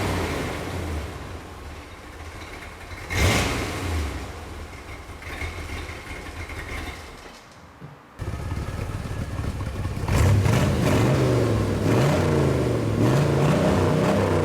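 1963 Corvette Stingray's 327 V8 running through its exhaust, with a short sharp rev about three seconds in. The sound cuts off abruptly near the middle, then the engine comes back, its pitch rising and falling several times as it revs and pulls.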